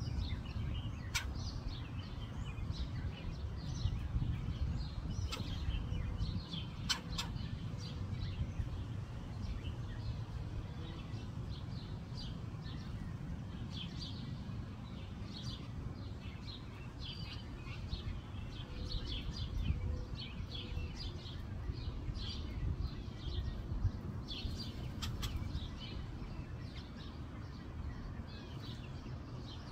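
Birds chirping and calling in many short notes, with a few sharp clicks, over a steady low rumble.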